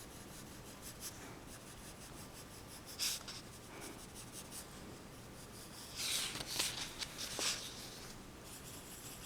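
Pencil scratching on paper while sketching: faint, quick strokes throughout, a single sharper stroke about three seconds in, and a louder run of scratchy strokes a little past the middle.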